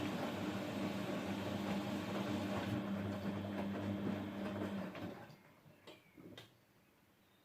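Grundig GWM4762WE20 washing machine running in its rinse: a steady mains hum over rushing water that stops about five seconds in, leaving a few faint clicks.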